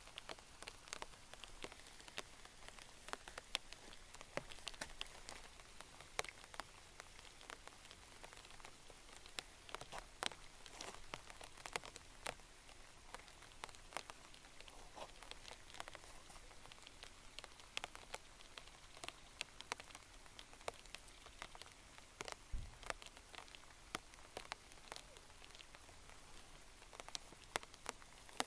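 Steady light rain falling on a lake and the ground around it: a soft even hiss with many sharp, irregular drop ticks close by.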